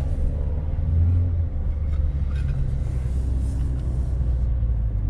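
Dodge Challenger Scat Pack's 392 (6.4-litre) Hemi V8 rumbling at low speed as the car pulls away and turns, heard from inside the cabin, with a brief swell about a second in.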